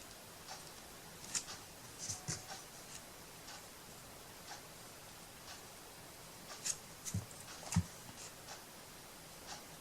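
Clock ticking faintly about once a second, with a few louder clicks and knocks from work at the table, two short bunches of them.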